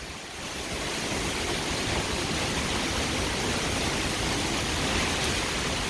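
Heavy wind-driven thunderstorm rain and strong wind gusts, a steady rushing noise that swells over the first half second and then holds, with wind rumbling on the microphone.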